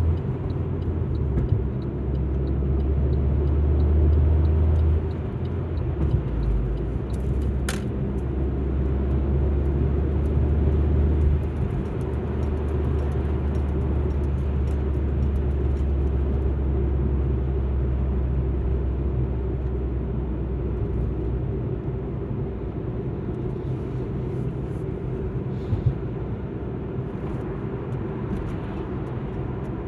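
Alfa Romeo MiTo on the move: a steady engine and road-noise drone, whose low hum shifts in pitch and level a few times. A single sharp click is heard about eight seconds in.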